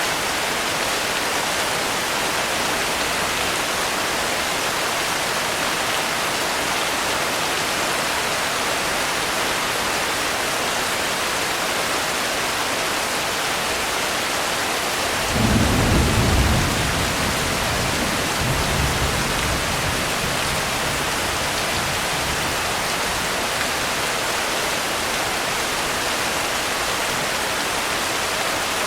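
Steady rain hissing throughout. About halfway through, a roll of thunder rumbles low for a couple of seconds, followed shortly by a fainter second rumble.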